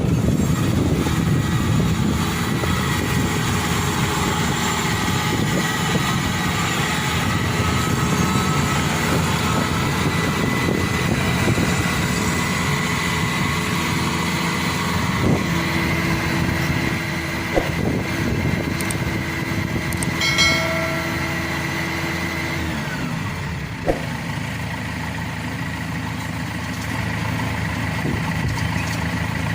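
Maxxi Bimo 102 combine harvester's diesel engine running steadily, with a steady high-pitched whine over it. A lower hum drops away about three quarters of the way through, and a few sharp knocks stand out here and there.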